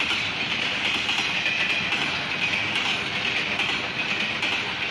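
Railroad cars of a freight train rolling past close by: a steady rumble and clatter of steel wheels on the rails, with faint clicks.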